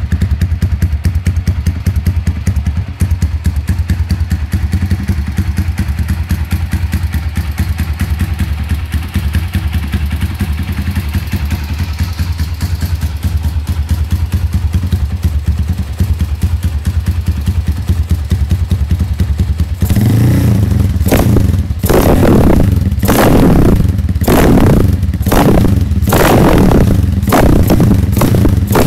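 Honda CB motorcycle engine, bored up to 235cc with a 32 mm PE carburettor, idling through a free-flow exhaust with a loud, fast pulsing beat. About twenty seconds in, the throttle is blipped in a string of short revs, roughly one a second.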